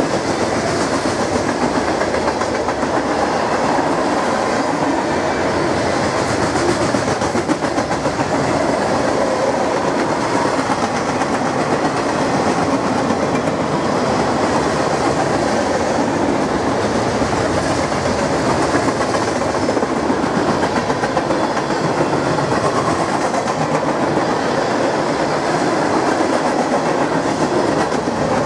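Cars of a long mixed freight train (tank cars, covered hoppers, boxcars and centerbeam lumber cars) rolling past close by: a steady rumble with a rapid clatter of steel wheels on the rails.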